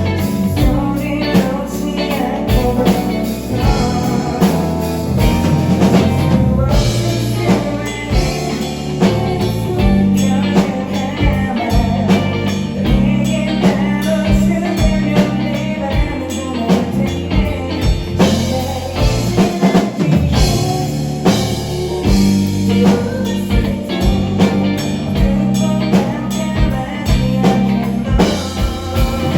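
Live band playing an instrumental passage of a pop-rock song, with drum kit, bass and guitar and a steady beat.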